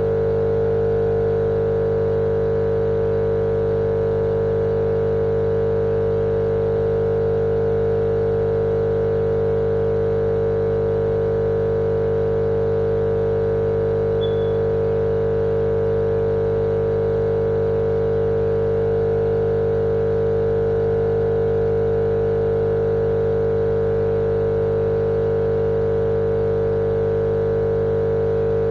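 A steady, unchanging machine-like drone with a strong humming tone and lower hum beneath it: a continuous white-noise track for lulling babies to sleep.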